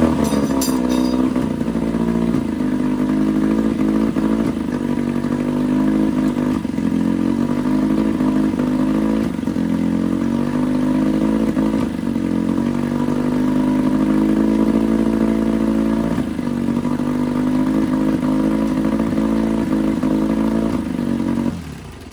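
1969 Johnson 9.5 hp two-cylinder two-stroke outboard motor running at high revs with the choke off, its pitch sagging and recovering every few seconds. The sound cuts off abruptly at the very end.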